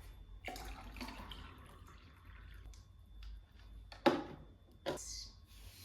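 A few separate light knocks and clicks of small objects being handled, the sharpest about four seconds in and another a second later.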